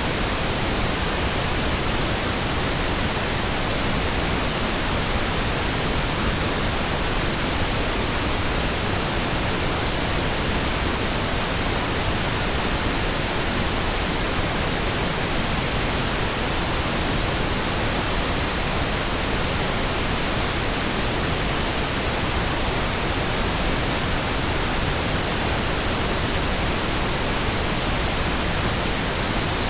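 Steady, continuous pink noise: an even hiss spread across all pitches, with no changes or interruptions.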